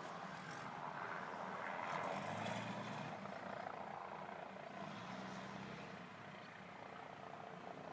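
Helicopter flying low nearby, its rotor and engine noise a steady rush that swells about two seconds in and then slowly fades as it moves away.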